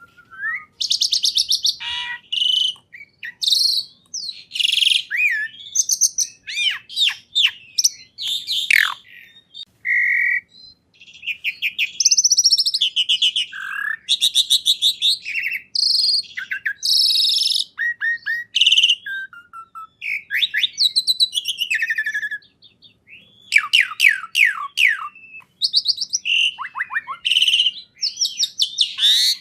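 Songbird singing a long, varied song of rapid trills, quick repeated notes, rising and falling whistles and sweeps, with a short pause near the end.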